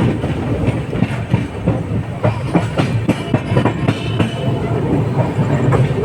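Express train running through a station at speed without stopping, wheels clattering over rail joints and points in quick, uneven clicks over a steady rumble.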